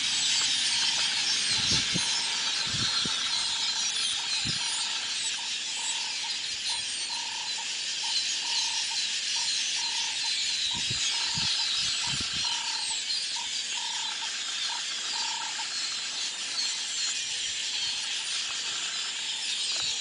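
A large flock of birds calling all at once in a dense, high-pitched chatter. Through the middle a short mid-pitched note repeats about once a second, and there are a few soft low thumps.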